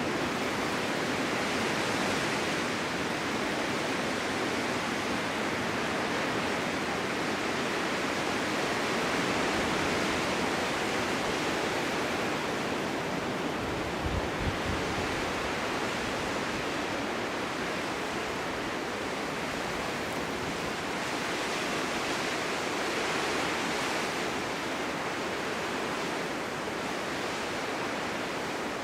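Snowstorm wind blowing steadily, rising and falling in slow swells, with one brief low buffet about halfway through.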